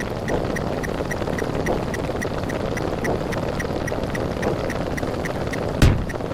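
A dense layered stream of cartoon and meme sound effects, each fired by a digit rolling over in a fast quinary count. It forms a rapid, even ticking about seven times a second over a thick rumbling wash, with one heavy low boom near the end.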